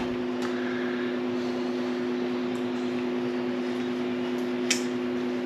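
Steady two-tone electrical hum of shop equipment, with a faint click about half a second in and a sharper click near the end from hand work on the wiring.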